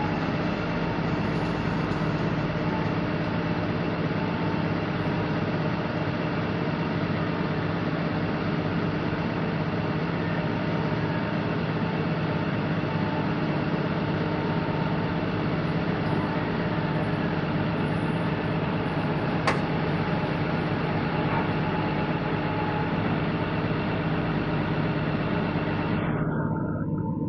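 Heavy construction machine's diesel engine running steadily, with one sharp click about two-thirds of the way through.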